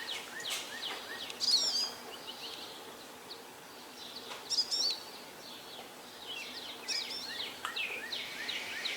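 Wild songbirds singing: a short, high, warbling phrase comes back about every three seconds, with scattered chirps between, over a faint steady background hiss.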